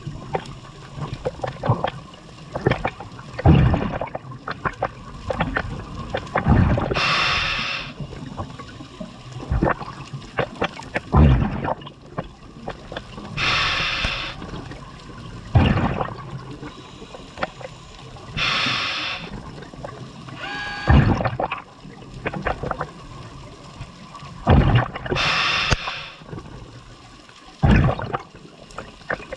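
Scuba diver breathing through a regulator underwater: a rush of exhaled bubbles about every five to six seconds, with gurgles and low knocks in between.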